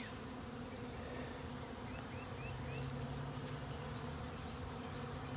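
Honeybees buzzing steadily around open hives, a colony that has been stirred up. A few faint short chirps sound about two seconds in.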